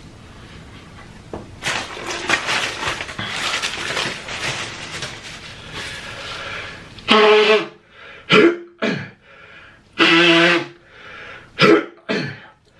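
A man coughing hard on food that has gone down the wrong way, which he feels as food in his lungs. A few seconds of rough, crackly throat noise give way about halfway through to five loud, separate coughs.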